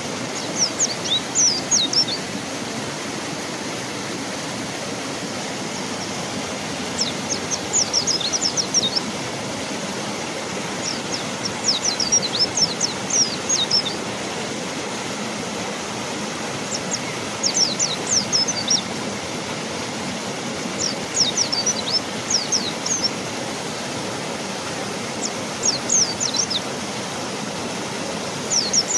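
A mountain white-eye sings short, rapid phrases of thin, high, falling notes, about six phrases a few seconds apart. Under the song, a river rushes steadily.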